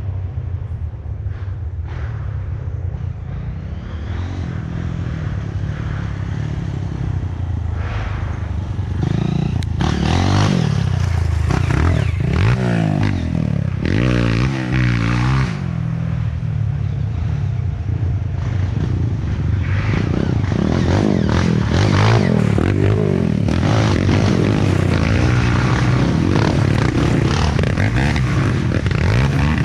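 Several off-road trail motorcycle engines revving up and down, overlapping one another, louder from about ten seconds in.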